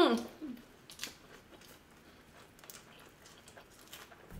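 Faint chewing and small wet mouth clicks from people eating lettuce wraps of grilled beef, rice and kimchi. A hummed vocal sound trails off right at the start.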